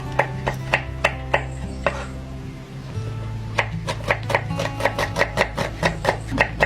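Knife chopping food on a cutting board in quick, even strokes, about three a second at first, then after a short pause a faster run of about four or five a second.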